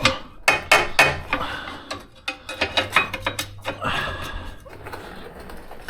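Metal clinks and knocks, then scraping, as an old riveted frame bracket is forced loose; the bracket bends rather than coming free.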